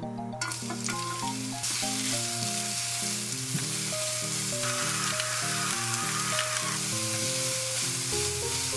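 Julienned carrots sizzling in hot oil in a rectangular frying pan as they are tipped in and stirred with a spatula; the sizzle starts faintly under a second in and turns loud and steady about a second and a half in. Soft background music plays underneath.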